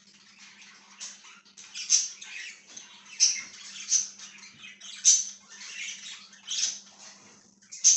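Pet budgerigars chirping and chattering, with sharp, loud calls about once a second over a continuous twittering. A faint steady low hum runs underneath.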